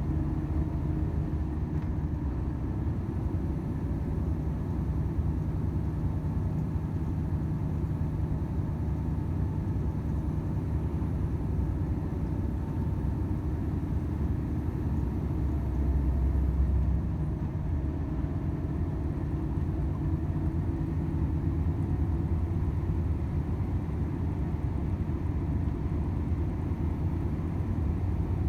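Volvo FH 500 truck's 13-litre straight-six diesel running steadily on the road, with low tyre and road rumble; a brief louder low rumble about sixteen seconds in.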